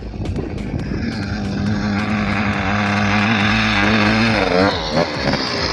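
Enduro motorcycle engine running at a steady throttle, growing louder over the first few seconds. Its note wavers and falls away about four and a half seconds in.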